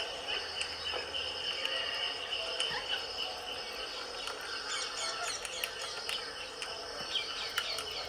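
Soft bird chirps and short clicks, more of them in the second half, over a steady high-pitched ringing hum.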